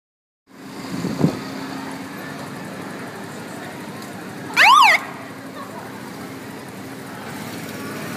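Street traffic noise, then a short, loud siren chirp from an emergency vehicle a little past the middle, its pitch dropping and rising quickly.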